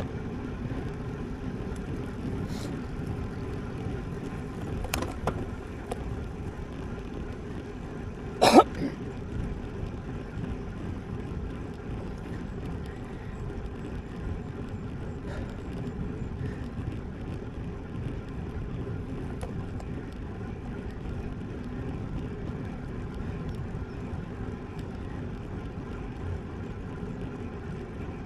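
Steady rumble of wind and tyres on pavement from a road bike being ridden, with a few faint clicks and one loud, sharp knock about eight seconds in.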